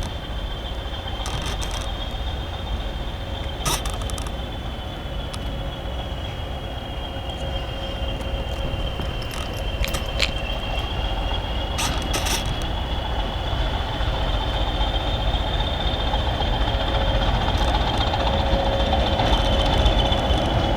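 Railway train running: a steady rumble of wheels and carriage on the track, with a thin high whine held throughout and a few sharp clicks, growing slightly louder near the end.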